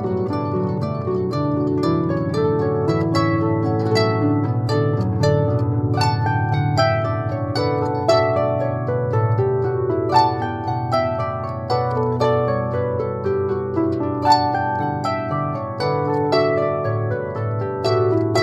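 Instrumental harp music: a pop melody played as a steady run of quickly plucked, ringing notes over sustained bass notes.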